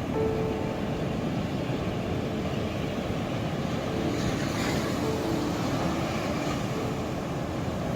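Ocean surf rumbling steadily with wind on the microphone, and a wave washing in about halfway through. A faint humming tone comes and goes underneath.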